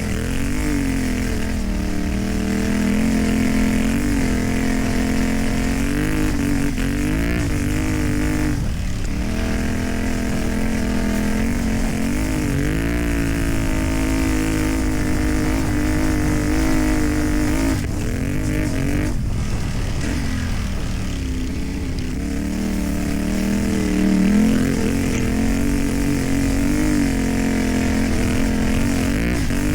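CFMoto 450MT's parallel-twin engine through a modified exhaust, ridden on dirt: the revs rise and fall with the throttle, dropping sharply a few times as the throttle is closed or gears change.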